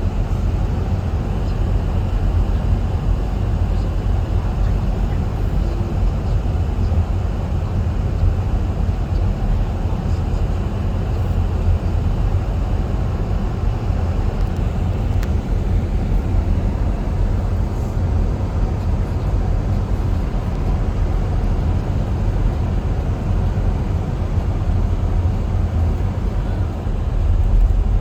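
Strong wind buffeting the microphone: a steady, rough low rumble that swells a little louder near the end.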